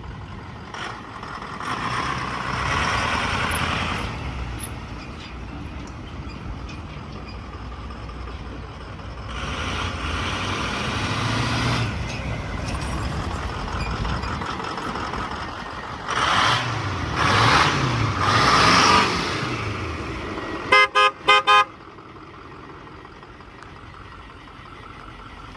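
A 2009 Ford F550's 6.4L Power Stroke V8 diesel is revved up and back down several times. The horn then gives four quick beeps, and the engine settles to a steady idle.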